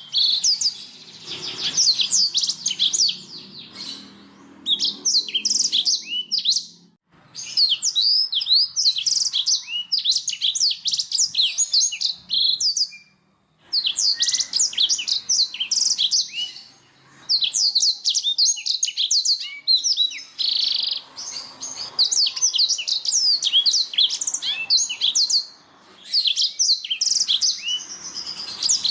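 Domestic canary singing long phrases of rapid, high chirps and trills, broken by a few short pauses.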